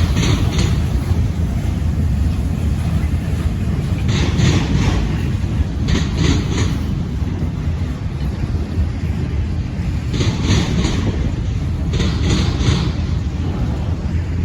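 A long freight train's cars rolling past, a steady heavy rumble with wheels clicking over a rail joint in quick groups of three or four clacks, the groups coming in pairs every few seconds as each car goes by.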